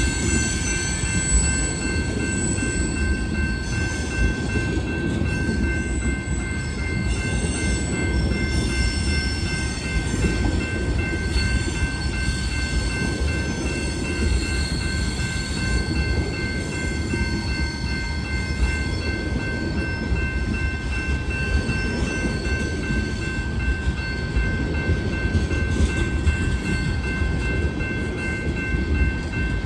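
Freight train of tank cars rolling past, a steady low rumble of wheels on rail. Thin, steady high-pitched tones run above it.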